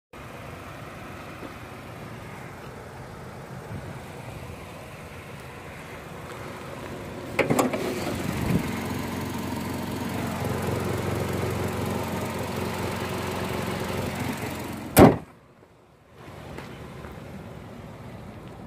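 Hyundai Avante (Elantra) sedan's petrol engine idling steadily, heard louder midway with the bonnet open. About fifteen seconds in, a single loud bang as the bonnet is slammed shut.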